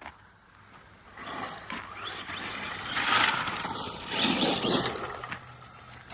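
Arrma Mojave EXB RC truck driving over rocks and gravel: tyres scrabbling and the motor surging in several bursts, starting about a second in and loudest in the middle.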